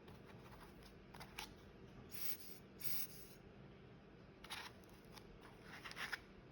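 Faint clicks and a few short scraping strokes from a manual coffee grinder being handled.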